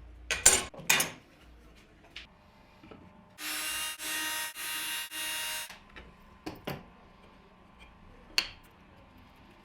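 Power drill running in three short, even bursts, with clicks and knocks of tools and parts being handled before and after.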